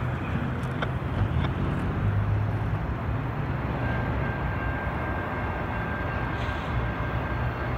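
Low, steady diesel rumble of an approaching locomotive mixed with passing road traffic. A thin, steady high tone comes in about four seconds in.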